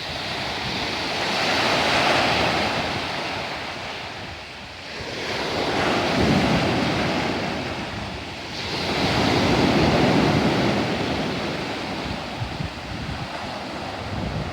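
Sea waves breaking and washing up the shore, swelling and ebbing three times at about four-second intervals, with wind buffeting the microphone.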